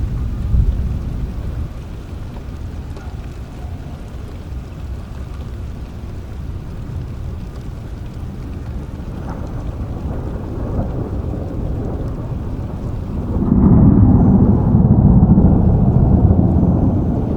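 Steady rain falling, with a low rumble of thunder that swells up about three-quarters of the way through, rolls on for a few seconds and then eases off.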